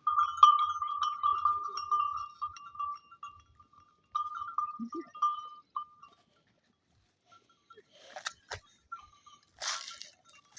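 Goat bleating: one long wavering call, then shorter calls from about four seconds in. Scuffling noises and a knock come near the end.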